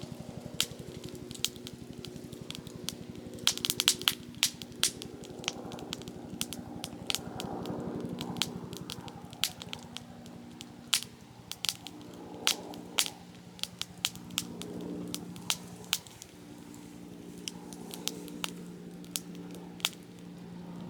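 Softwood campfire in a Picogrill 398 fire stand crackling, with sharp pops throughout and a quick flurry of them about four seconds in. A steady low drone runs underneath, its pitch shifting about halfway through.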